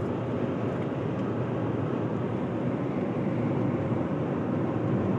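Steady rumble of a car driving, its road and engine noise heard from inside the cabin.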